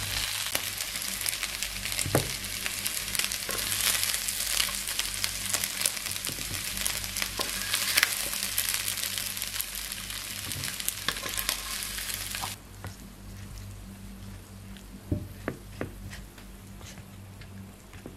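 Pepper chicken sizzling in hot oil in a frying pan, with small clicks and scrapes of stirring. The sizzle cuts off suddenly about two-thirds of the way in, leaving a steady low hum and a few light taps.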